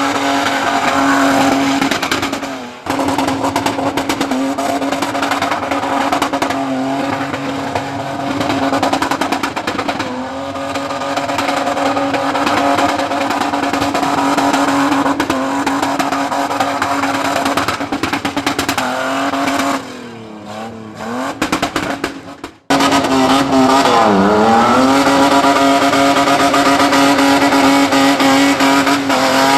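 Car engine held at high revs, a loud steady note that sags and climbs back twice near the end and breaks off abruptly twice.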